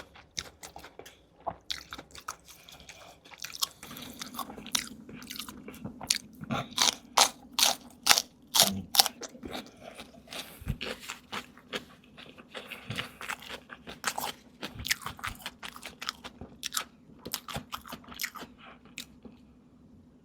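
Close-miked chewing and biting of crunchy food: a dense run of sharp crunches, thinning out near the end.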